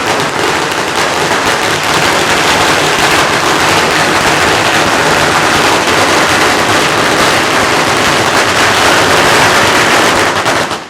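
A long string of firecrackers going off in a rapid, unbroken crackle, loud throughout, stopping abruptly near the end.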